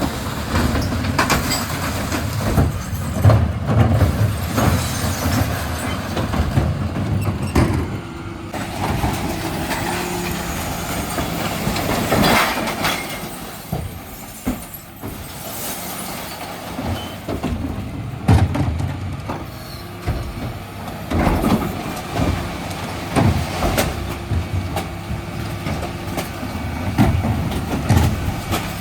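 Dennis Elite 6 refuse truck running on collection: a steady engine and hydraulic hum, with repeated metallic clanks and bangs of bins being lifted and emptied into the body.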